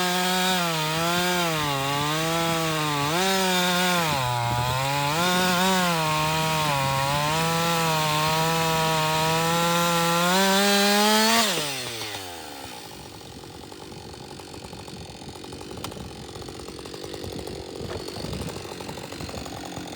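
Two-stroke chainsaw at high revs cutting wood, its pitch dipping repeatedly as the chain bites into the cut. About eleven and a half seconds in, the revs drop sharply and the saw winds down, leaving only faint rustling.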